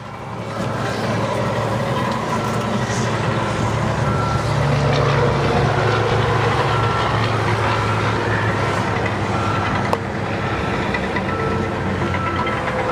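A vehicle's reversing alarm beeping steadily at an even pace over the constant rumble of a running truck engine.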